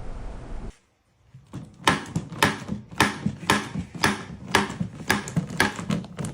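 A quick run of sharp knocks or taps, a few a second, starting about a second and a half in.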